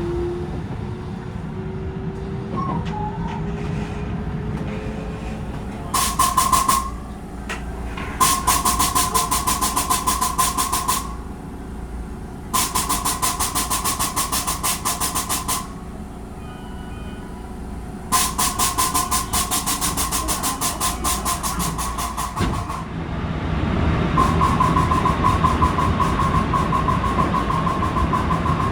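Rapid 'ka-ka-ka' clattering from under the floor of a JR West 223 series 1000 train car, coming in five runs of one to four seconds each over the train's running noise. The uploader takes it for the air compressor, though the cause is unknown.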